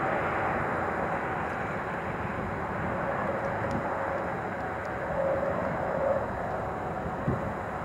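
Freight train rolling past at a distance: a steady rumble of wheels on rail, with a faint high tone that swells about five seconds in and a single knock near the end.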